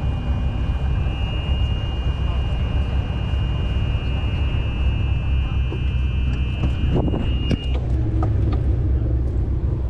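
A steady low engine rumble runs throughout, with a thin high whine that cuts off suddenly near the end. A few sharp knocks come about seven seconds in.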